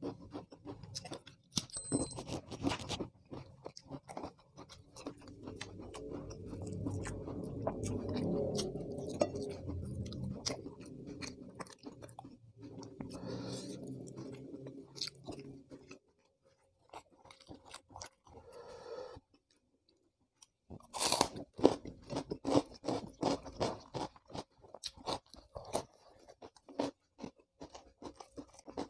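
Close-miked mouth sounds of eating raw vegetables with rice and sambal: wet chewing with many crisp crunches and bites. A low steady hum runs under the chewing for several seconds in the middle. After a brief quieter spell, the crunching returns loudest and densest near the end.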